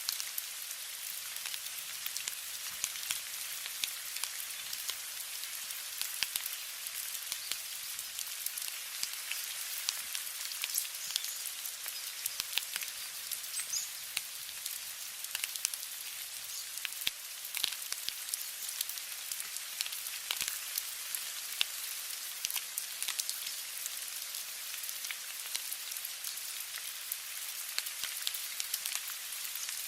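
Steady rain with many individual drops pattering, a continuous high hiss dotted with small sharp drop clicks.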